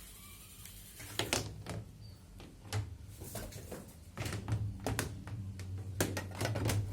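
A series of sharp knocks and clacks from parts of a new washing machine being handled and opened, coming more often near the end, over a low steady hum.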